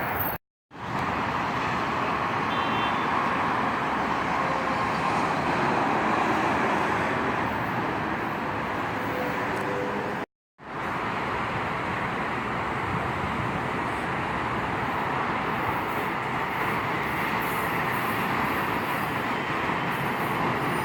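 Steady rolling noise of a passing train, broken twice by sudden brief dropouts to silence, about half a second in and about ten seconds in.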